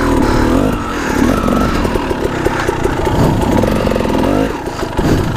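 Dirt bike engine running, revving up and easing off several times as it is ridden over rough trail.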